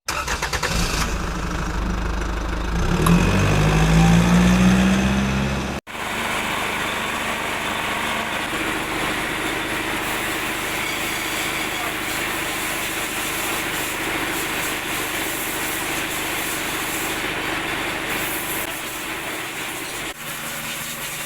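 Heavy diesel engine running loudly and revving up, its pitch rising between about three and five seconds in. It cuts off suddenly near six seconds, and a steadier, quieter engine-and-machinery running sound follows.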